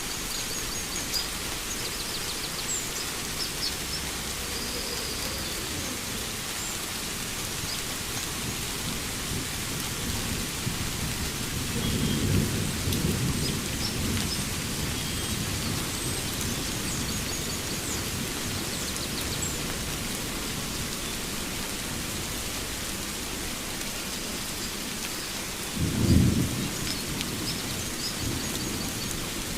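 Steady rain falling, with thunder rumbling twice: a long low rumble about twelve seconds in and a louder, sharper crack near the end. Faint bird chirps sound over the rain.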